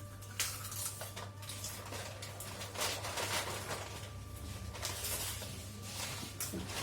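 People chewing and crunching crunchy snacks such as chips and Kurkure: irregular short crackling crunches, over a steady low hum.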